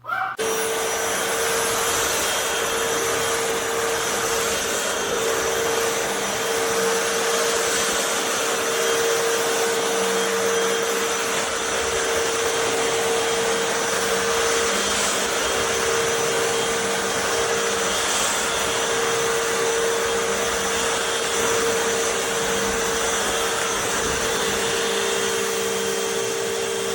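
Hoover FloorMate Deluxe wet/dry floor cleaner's vacuum motor running steadily: rushing air with a strong, steady hum-whine on top. Its motor bearings have died, which the owner says makes it sound like it's eating itself.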